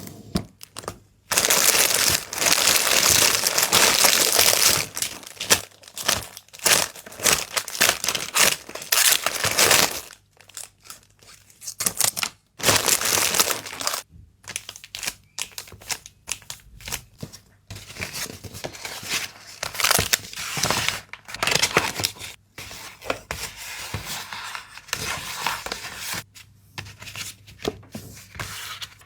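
Packaging material crinkling and rustling as it is handled by hand while a parcel is packed. A long, loud stretch of dense crinkling in the first ten seconds, then shorter bursts of rustling with brief pauses between them.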